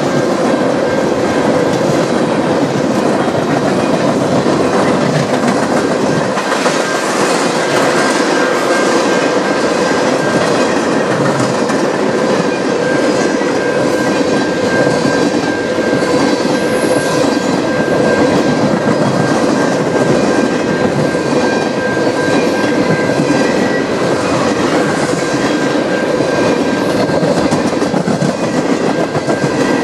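Freight train of tank cars rolling past, steel wheels clicking over the rail joints in a steady clickety-clack, with a thin steady high-pitched tone held over the rumble.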